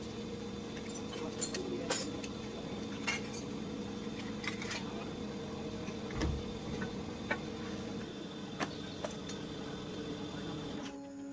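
Scattered sharp metallic clinks and taps, like tools and steel parts being handled, over a steady mechanical hum. The hum stops near the end.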